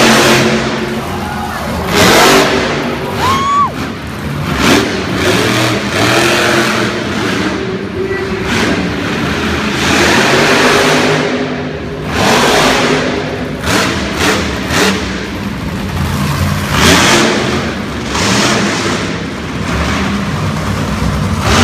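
Monster truck engine revving hard in repeated bursts, rising and falling every few seconds as the truck is driven through its freestyle run.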